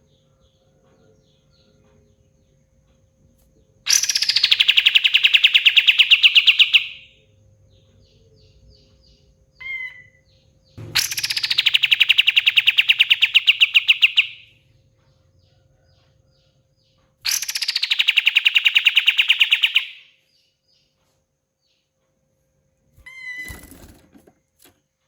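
A kapas tembak songbird singing three long, very fast rattling trills of about three seconds each. Each trill opens with a high falling note, and short single chirps come in between.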